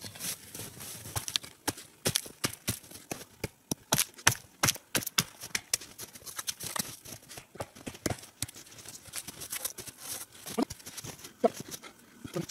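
Footsteps crunching in snow, with irregular knocks and snaps of spruce wood being handled and laid down.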